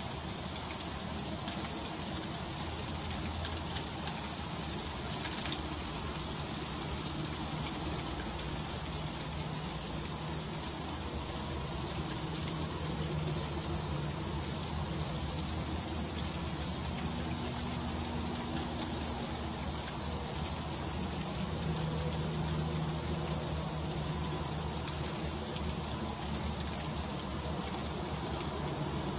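Freezing rain falling steadily, a constant high hiss of fine drops and ice on surfaces. A faint low hum comes and goes underneath.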